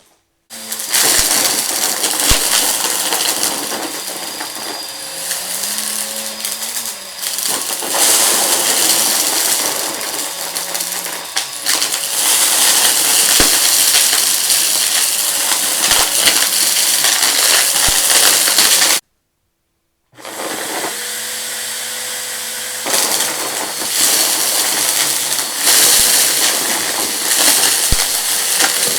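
Vacuum cleaner running on a rug and sucking up crunchy debris, a steady motor hum under a loud hiss with scattered clicks and rattles of bits being pulled in. The sound breaks off for about a second roughly two-thirds of the way through, then carries on.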